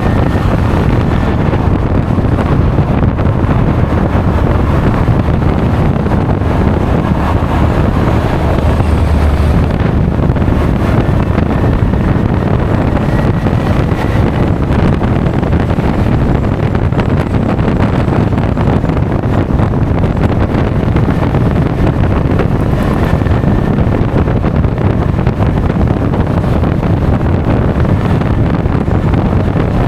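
Steady, loud wind rush buffeting an action camera's microphone while riding a Honda Forza 350 scooter, with the scooter's running engine and road noise underneath.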